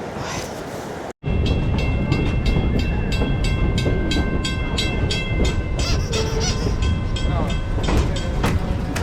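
A second of rushing waterfall water, then a passenger train running on rails: a low rumble with rapid, regular clicks of the wheels over the rail joints and a steady high-pitched whine through the middle.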